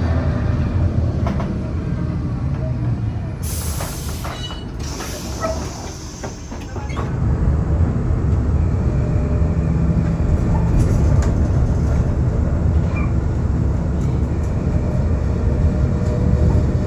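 Gothenburg tram running on its rails with a steady low rumble. A few seconds of high hissing come in about three and a half seconds in while the rumble dips, and then the rumble builds again and holds.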